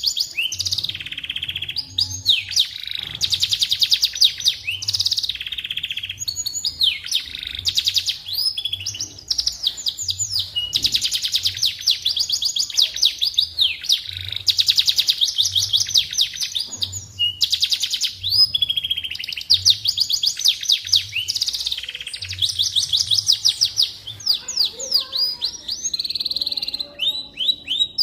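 Domestic canary singing a long, continuous song of rapid rolling trills and warbles, broken by short pauses, with a faint low hum underneath.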